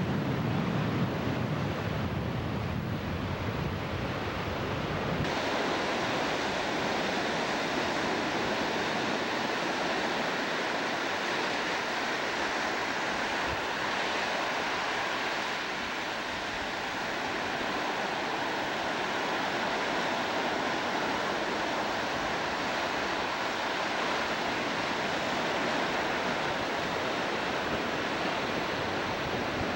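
Steady rushing noise of surf and wind. A low rumble underneath stops abruptly about five seconds in, after which only the even hiss of water and wind remains.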